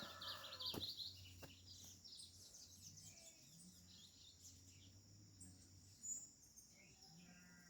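Quiet farmyard background with faint birds chirping. The tail of a rooster's crow ends under a second in.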